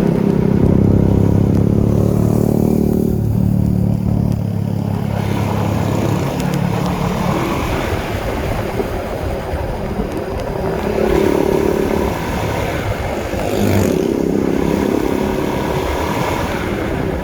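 Honda CB150R's single-cylinder 150 cc engine running under way, its note held steady for several seconds, easing off about halfway through, then picking up again in short stretches, over constant road noise.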